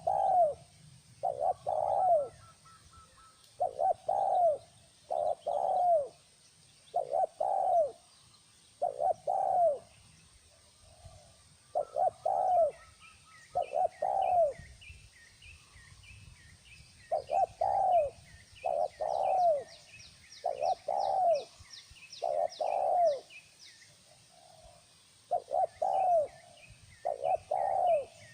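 Spotted doves cooing: short, falling coos repeated in groups of two or three, one phrase every second or two. Fainter, rapid high chirps of smaller birds join in from about halfway.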